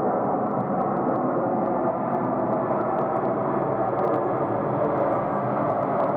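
Jet engines of a Delta Airbus A330 airliner: a steady, even roar of engine and air noise.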